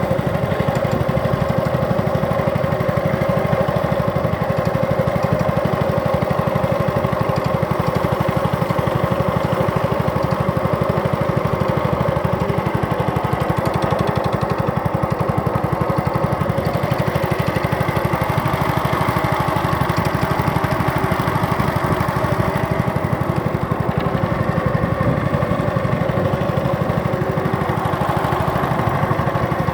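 Small boat's engine running steadily, with an even, fast putter that does not change in pace or loudness.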